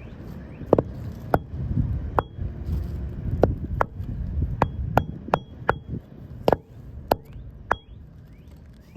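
Hammer hand-driving roofing nails through an architectural shingle, about a dozen sharp strikes at an uneven pace, several with a short metallic ping. The nails are going into cement decking, which makes them bend.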